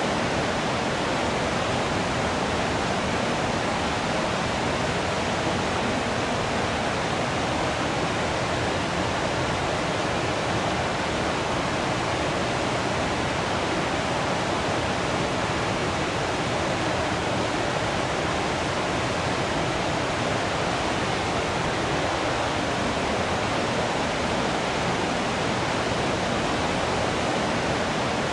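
Waterfall rushing in a steady, even roar of falling water, with no change in level.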